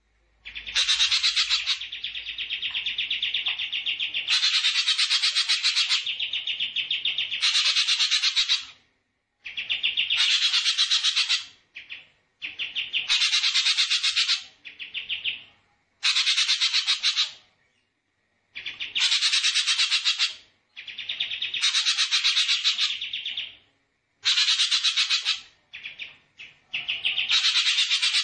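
A small songbird repeating fast, buzzy rattling trills in bursts of one to three seconds, with short pauses between them, as in a recorded birdsong 'master' track.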